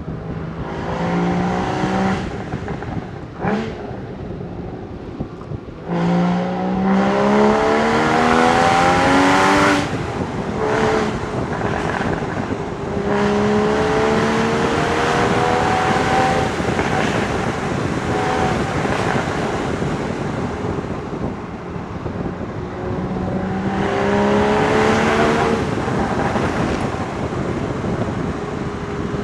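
Porsche Boxster Spyder 981's flat-six engine and exhaust under acceleration, heard from on board. The engine note climbs in pitch and then drops sharply at each gear change, several times over, with wind noise underneath.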